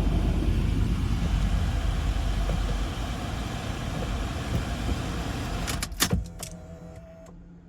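Lexus GX 470's 4.7-litre V8 idling with a steady low rumble. A few sharp knocks come about six seconds in, after which the sound drops to a faint hum.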